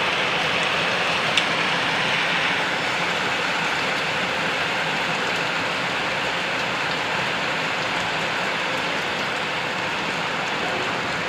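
Heavy rain pouring down steadily in a cyclone storm, with one sharp tick about a second in.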